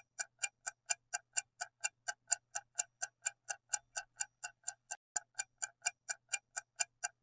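Clock ticking steadily, about four ticks a second: the ticking sound effect of a quiz countdown timer during the pause for an answer.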